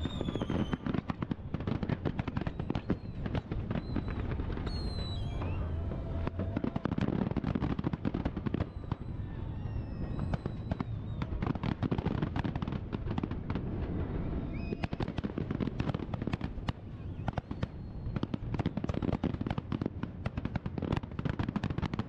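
Fireworks display finale: a dense, continuous barrage of aerial shell bursts, crackle and pops from many shells and fans of comets fired together, with a few short whistles over the top.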